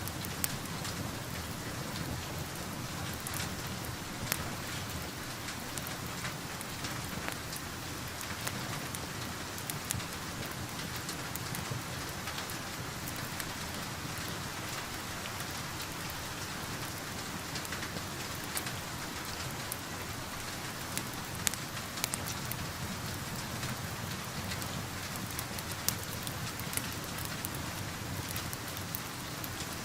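Steady rain falling on a surface, with scattered sharp pops from a crackling wood fire.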